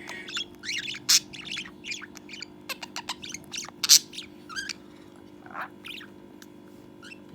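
Budgerigar chattering in quick, short chirps and clicks, with a sharp loud chirp about four seconds in, thinning out over the last couple of seconds.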